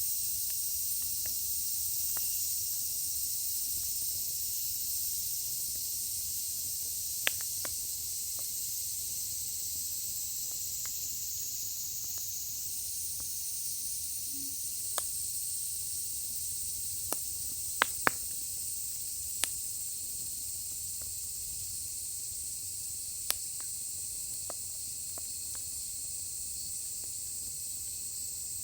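Firewood burning in a steel fire pit: a steady hiss with a scattering of sharp crackles and pops, two of the loudest close together about two-thirds of the way through.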